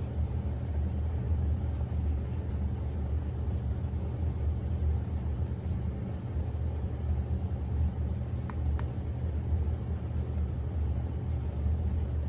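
COMFEE countertop dishwasher running: a steady low hum and rumble from its wash cycle, with two faint short clicks about two-thirds of the way through.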